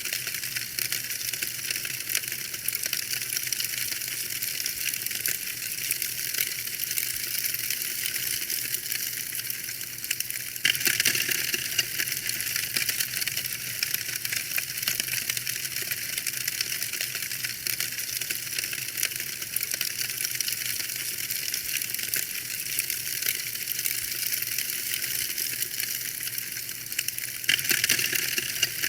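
Wood fire burning in a fireplace, crackling steadily with dense small pops and snaps. It gets briefly louder and sharper about 11 seconds in and again near the end.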